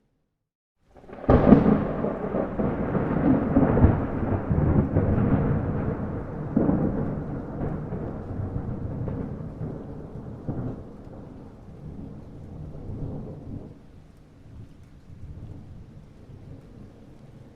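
After about a second of near silence, a sudden thunderclap, then thunder rumbling and crackling on, slowly fading away, with rain beneath.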